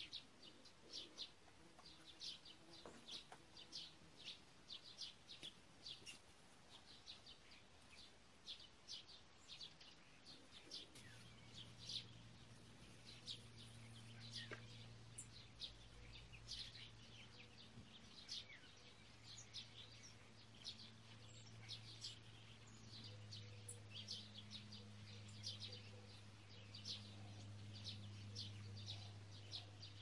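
Faint bird chirping: many short, high chirps repeating throughout. About a third of the way in, a low steady hum joins underneath and grows a little louder near the end.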